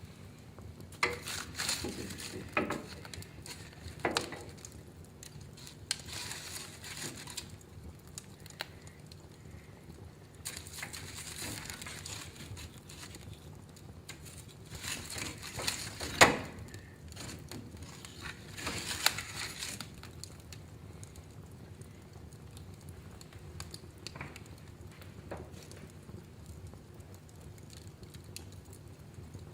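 Fire burning in a fireplace, crackling with scattered sharp pops, the loudest about sixteen seconds in, over a steady low background.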